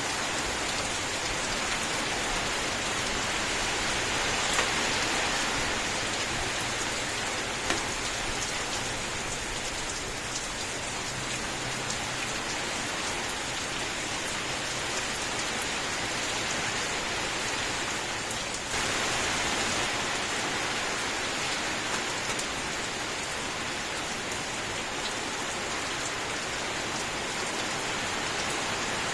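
Steady rain falling: a continuous hiss with scattered louder drop ticks. The rain's level steps up slightly about two-thirds of the way through.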